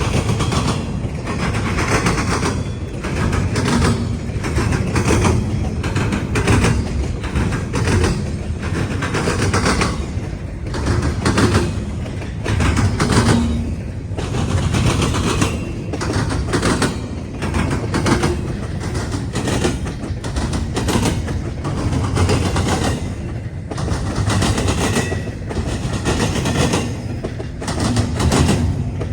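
CSX freight train's wheels pounding over a railroad diamond crossing: a continuous string of loud, sharp bangs as wheelset after wheelset hits the gaps in the crossing, over the steady rumble of the passing cars.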